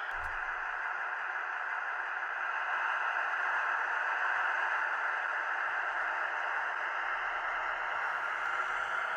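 Model train running on the layout's track: a steady whirring rush of the locomotive's motor and the wheels on the rails, swelling a little in the middle.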